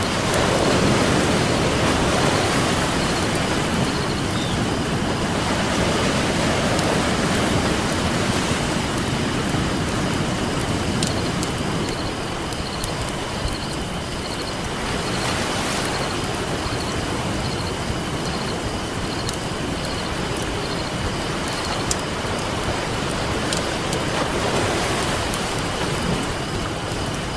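Ocean surf washing in and out, the waves swelling and fading every several seconds, with the scattered crackle and pops of a wood campfire over it.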